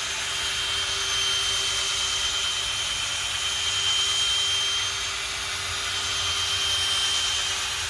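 Electric drill running steadily at speed, spinning a polishing pad with polishing compound against a plastic headlight lens: a continuous whir with a steady hum and a high whine over a hiss.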